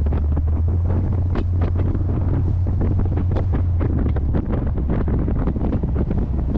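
Heavy wind buffeting the microphone of a moving C3 Corvette, over the steady low drone of its 350 small-block V8.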